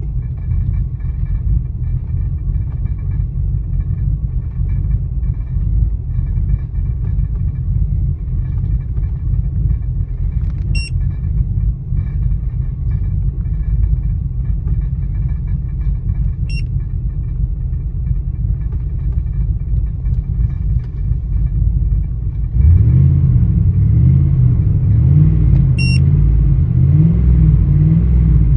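2000 Ford Expedition V8 idling roughly, a steady low rumble. About three-quarters of the way through it gets louder and the engine note starts to rise and fall unevenly. Three short high chirps come and go.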